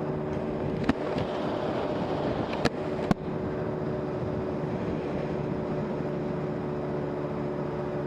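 A vehicle travelling along a road: a steady running hum over wind and road noise. Three sharp clicks come at about one second and around three seconds in.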